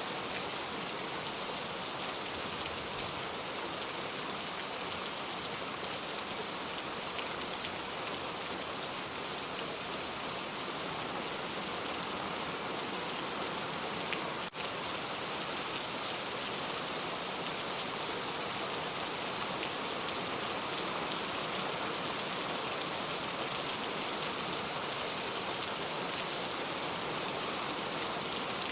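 Steady rain falling, an even hiss of drops that does not let up. A single brief click sounds about halfway through.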